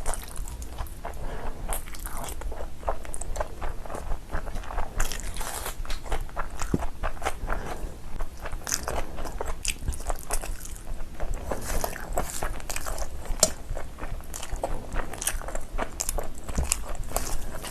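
Close-miked eating: a person biting, crunching and chewing food in big mouthfuls, with many irregular clicks and crackles throughout.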